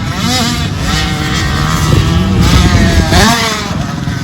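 Dirt bike engine revving up and down as it rides, with a sharp rise in pitch about three seconds in.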